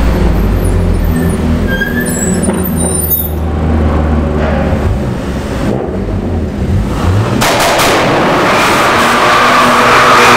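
Volkswagen Golf GTI Mk5's turbocharged 2.0-litre four-cylinder running low and steady as the car rolls slowly, then about seven seconds in it accelerates hard and the engine sound rises and gets much louder, inside a concrete underpass.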